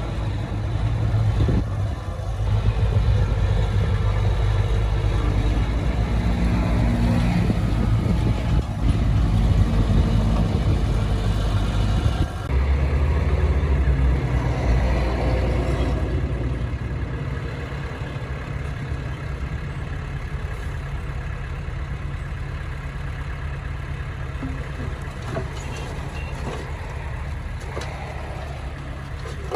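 Heavy diesel machinery running on a sand-filling site, its engine sound changing about 12 seconds in and fading gradually after about 16 seconds.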